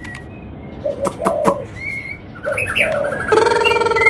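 White-rumped shama (murai batu) singing: sharp clicks and short whistled notes, then from about three seconds in a louder, full warbling phrase of several held, wavering tones.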